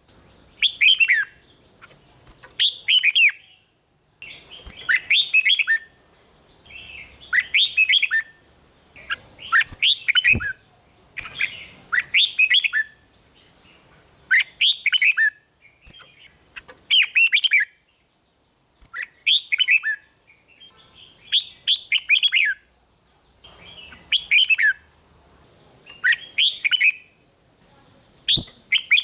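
Red-whiskered bulbul singing: short, bright whistled phrases of quick falling notes, repeated over and over with brief gaps. A faint steady high-pitched hiss runs behind the song.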